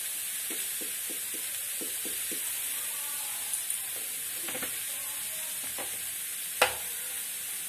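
Grated cabbage stuffing sizzling gently in mustard oil in a kadhai, a steady hiss. A quick run of light taps comes in the first couple of seconds, and a single sharp click near the end.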